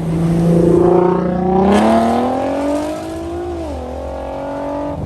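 A car engine accelerating away, its pitch rising steadily for about three and a half seconds, then dropping suddenly and holding lower, with a short burst of noise about two seconds in.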